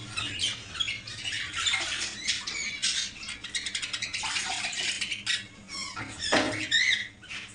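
Many caged pet birds chirping and squawking together in rapid, overlapping high calls, with the loudest shrill calls near the end.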